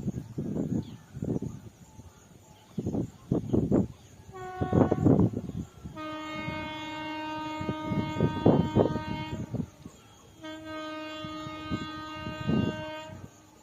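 A train horn sounds a short blast about four and a half seconds in, then two long steady blasts. Under the horn, a train clatters on the track with irregular heavy low thumps.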